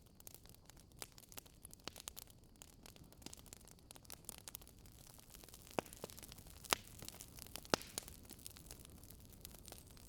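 Wood fire crackling in a fireplace: a steady patter of small ticks and crackles, with a few sharper pops past the middle.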